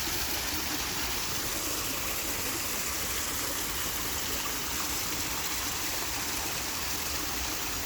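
Waterfall: water falling and rushing in a steady, even wash of noise that never breaks.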